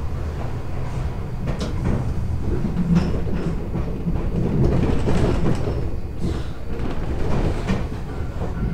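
Electric commuter train running on rails, heard from the driver's cab: a steady rumble of wheels on track with sharp clacks as it crosses rail joints and the points into a station loop.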